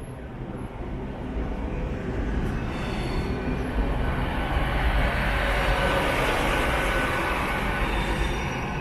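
Great Western Railway Class 802 bi-mode train rolling slowly into the platform on diesel power. The rumble of its underfloor engines and wheels grows louder as the coaches pass, then eases slightly near the end.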